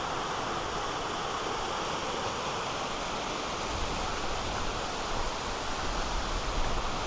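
Steady rush of falling water from a waterfall, with a low rumble joining in about halfway through.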